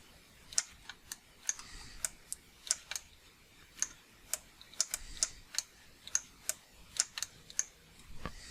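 Computer mouse and keyboard clicking: short, sharp clicks at an uneven pace, about two or three a second, while a 3D model is sculpted on screen.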